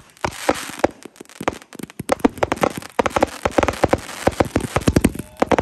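Fireworks bursting overhead: a series of sharp bangs and crackles with hissing between them. The bangs come thicker and faster about three seconds in.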